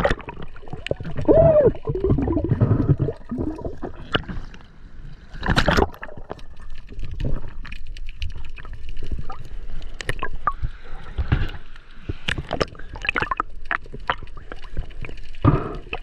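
Water gurgling and sloshing close to the microphone, with bubbling in the first few seconds and irregular splashes and knocks after that.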